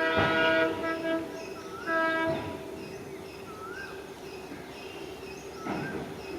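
WDG4D diesel locomotive's horn: a long blast that cuts off about a second in, then a short second toot about two seconds in, over a steady hum. A bird whistles a rising-and-falling call several times.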